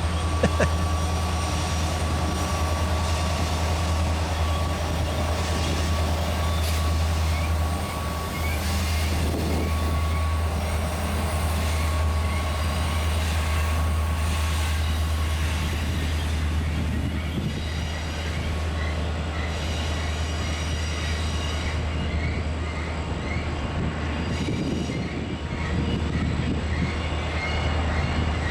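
Diesel locomotives running on Horseshoe Curve with a steady low engine rumble and a thin steady wheel squeal. A string of short high chirps comes in during the second half.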